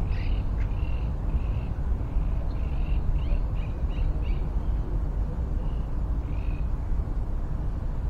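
A small bird calling in short, high chirps that come in loose clusters, some sweeping up or down in pitch, over a steady low rumble.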